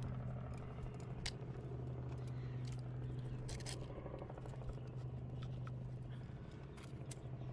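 A climber's gear and hands clicking and scraping against the rock in scattered light strokes, over a steady low hum.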